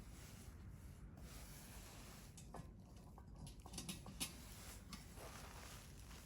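Wood campfire burning quietly: a faint steady hiss with scattered small crackles and snaps, the sharpest a little after four seconds in.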